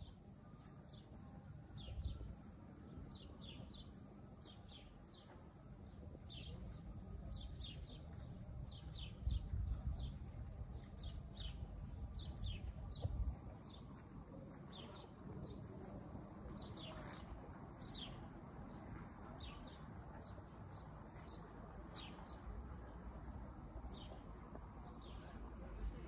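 Small birds chirping all through, many short downward-sweeping chirps several times a second. Underneath is a low rumble, with a few louder thumps about two, ten and thirteen seconds in.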